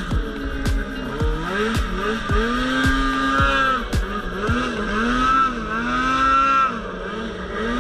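Polaris RMK Pro 800 snowmobile's two-stroke engine revving up and down over and over, its pitch rising, holding briefly and dropping each time the throttle is worked. Sharp ticks come over it during the first half.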